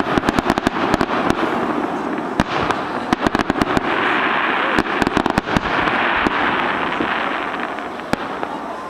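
Fireworks display: a rapid string of sharp bangs and pops from bursting shells, giving way in the middle to a dense, steady crackling hiss, with scattered bangs returning near the end.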